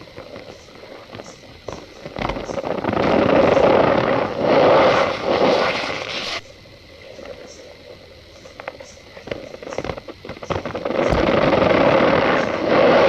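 Cornstarch powder being squeezed and pressed by hand, giving a grainy squeaking crunch in two long stretches, with light scattered ticks in the quieter pause between them.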